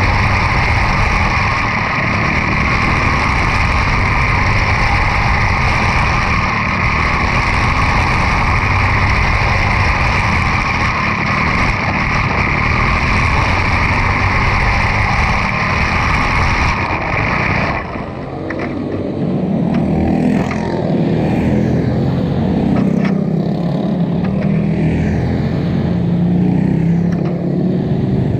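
Quarter midget race cars with single-cylinder Briggs & Stratton Animal engines running flat out in a steady high-pitched drone. About two-thirds of the way in, the pitch drops suddenly to a lower, uneven engine note as the cars slow.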